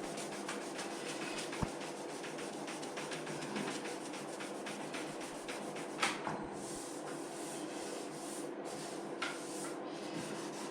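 Sandpaper rubbing over the cured clear coat of a painted scooter side panel in short repeated strokes, sanding out runs where the spray gun dripped. A sharper scrape stands out about six seconds in, over a faint steady hum.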